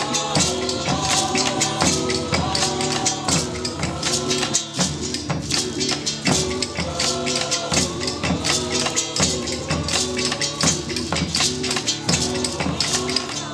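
Live group music with hand percussion: a fast, even beat of rattling hits under a melody of held notes that step from one pitch to the next.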